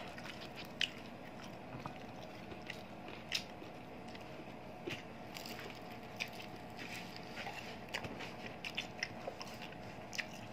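Close-miked eating sounds: people biting into and chewing crisp fried food such as ngohiong rolls, with small crunching clicks at irregular moments.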